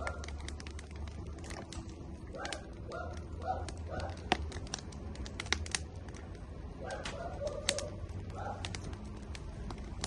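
Burning firewood crackling, with irregular sharp pops, the loudest about four seconds in. A bird calls in short series of low cooing notes in the background.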